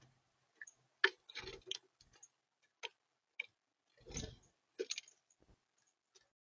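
Irregular taps and clicks on a bird feeder, close to the feeder camera's microphone, with two louder bumping clusters about a second in and about four seconds in: an animal feeding and moving about on the feeder.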